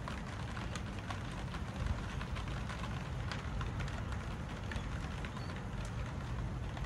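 Thunderstorm wind rumbling steadily on the microphone, with rain falling and scattered sharp ticks of drops landing close by.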